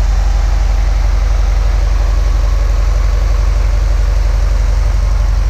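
1989 Volkswagen Vanagon engine idling steadily and evenly, heard from the rear engine bay. It is still warming up after a cold start, running its rich, raised 'choke mode' idle.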